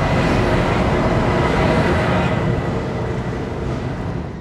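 Deutsche Bahn ICE train passing close by on a steel truss bridge, its power car rolling past with loud wheel-on-rail noise and a faint steady whine. The noise eases off near the end as the train moves away.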